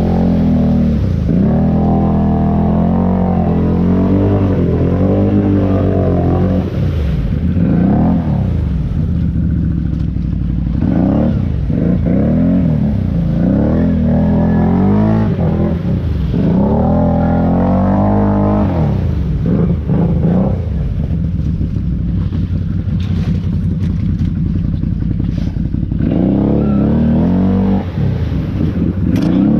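ATV engine running while being ridden, its pitch rising and falling again and again with the throttle. It settles into a lower, steadier stretch about two-thirds of the way through, then revs up again near the end.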